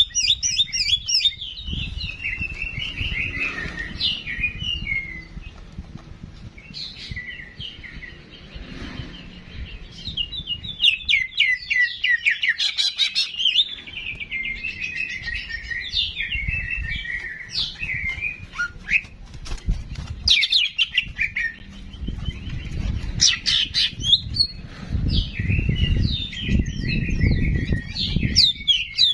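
Songbird singing a fast, varied chattering song of chirps and trills, in phrases broken by short pauses, over a low rumble. This is the Ki Jenggot bird's song used for masteran.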